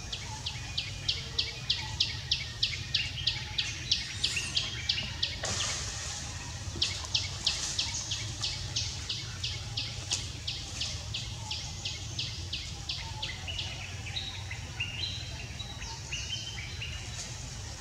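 A bird calling a long, even series of short, sharp high notes, about three a second, breaking off briefly about a third of the way in and then resuming; near the end the series gives way to a few shorter stepped notes.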